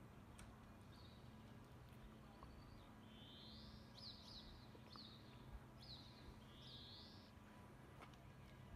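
Faint birdsong: a small bird singing a series of short, high chirps and rising whistles. Underneath is a faint, steady low hum.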